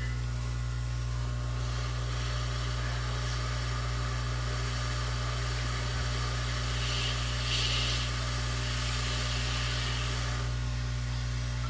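Hot air rework station blowing on a circuit board to desolder resistors: a steady airy hiss that comes in about two seconds in, briefly louder around two-thirds of the way through, and fades near the end, over a steady low electrical hum.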